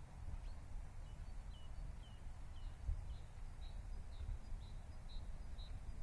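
A bird giving a series of short, high chirps, about two a second, faint over a low steady rumble of background noise.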